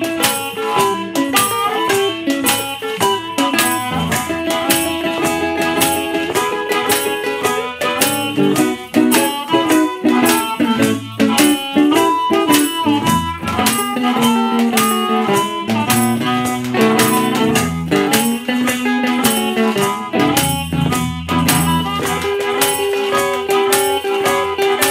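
Chicago blues band playing an instrumental passage: harmonica holding and bending notes over guitar, with a washboard scraping a steady beat.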